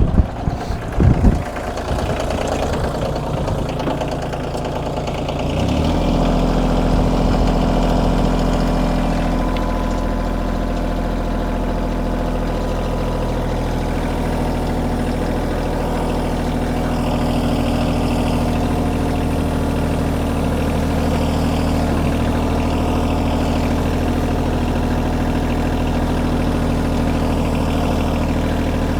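Kioti compact tractor's diesel engine running steadily, with a couple of short knocks about a second in; the engine grows louder about six seconds in and holds there.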